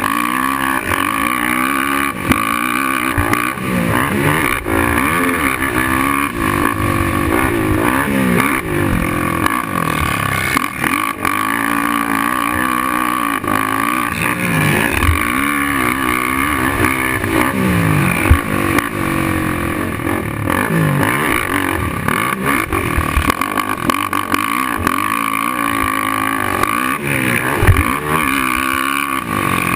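Suzuki LT-R450 racing quad's single-cylinder four-stroke engine revving hard, its pitch climbing and dropping over and over as it is ridden round a motocross track. A couple of sharp knocks come near the middle and near the end.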